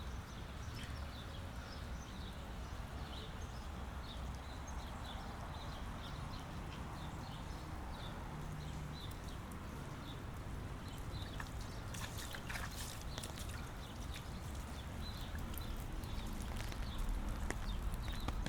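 Rain ambience heard while walking: an even wash of rain with footsteps and scattered light ticks of drops, and a cluster of sharper clicks about twelve seconds in.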